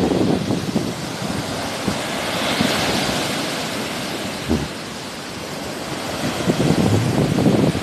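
Sea waves washing onto the shore, one wave's hiss swelling and fading about two to four seconds in, with gusts of wind rumbling on the microphone, strongest near the start and near the end.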